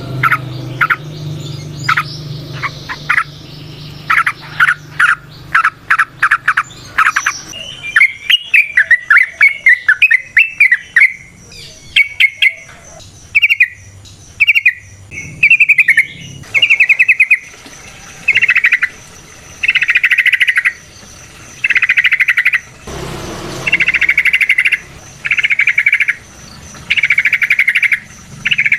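Yellow-vented bulbul (trucukan) singing: quick bursts of short notes, then a chattering warble, then a string of buzzy trills about a second long, repeated every second and a half or so.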